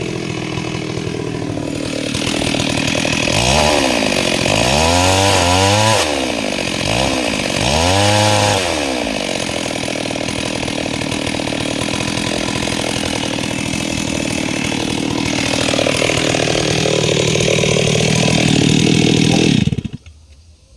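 STIHL MS 382 two-stroke chainsaw with a 30-inch bar revving up and down a few times, then running at steady high speed while sawing through mahogany. It stops suddenly near the end.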